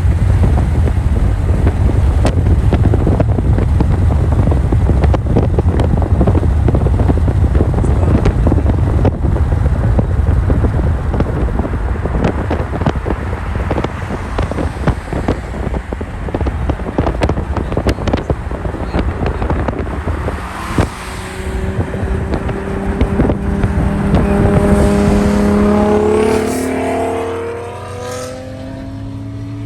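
Big-turbo car's engine running hard under load while being driven. About two-thirds of the way through its note climbs steadily through a gear, drops, then starts climbing again.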